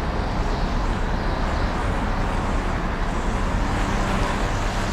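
Steady, unbroken vehicle noise: a constant drone with a rushing hiss over it, holding level throughout.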